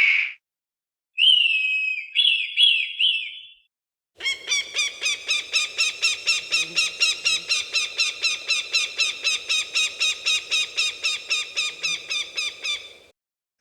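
Falcon calls: a harsh, falling scream and a few short notes, then a long, rapid run of sharp, repeated cackling notes, about four to five a second, lasting about nine seconds.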